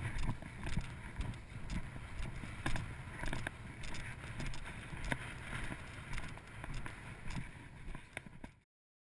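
Wind buffeting and rubbing on a body-worn action camera's microphone, with scattered irregular clicks and knocks from movement. The sound cuts out abruptly to silence near the end.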